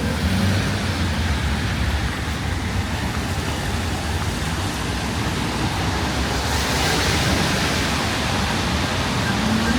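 Steady hiss of rain on a city street over a low traffic rumble; the hiss swells for a second or so about seven seconds in, as a vehicle's tyres pass on the wet road.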